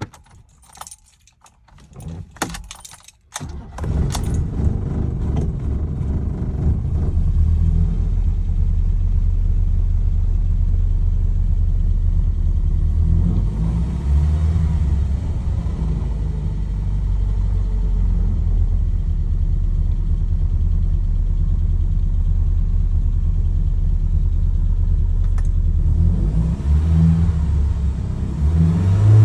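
1972 Lancia Fulvia's narrow-angle V4 cold-started: a few clicks and key rattle, a short crank, and the engine catches about three and a half seconds in. It then idles steadily, with the revs rising briefly twice, around the middle and near the end.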